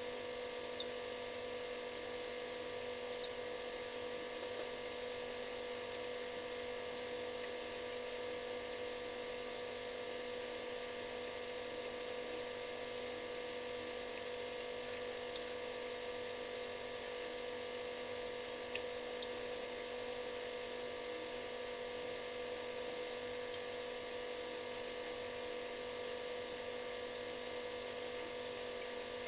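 Refrigerator running with a steady electrical buzz and hum: one strong, unchanging tone with several fainter higher tones over a light hiss, and a few very faint ticks.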